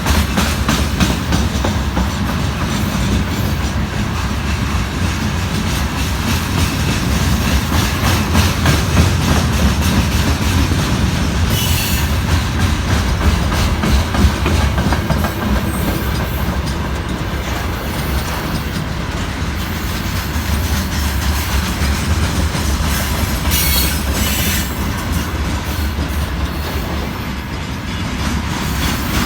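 Loaded freight train rolling past behind a VL80S electric locomotive: a steady rumble of wagon wheels clicking over the rail joints. Twice there is a brief high hiss or squeal from the wheels.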